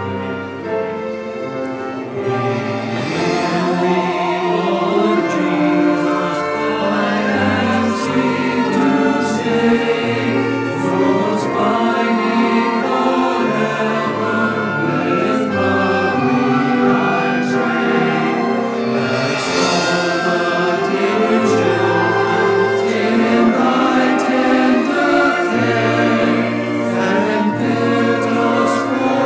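A choir singing with orchestral accompaniment, sustained choral chords over strings.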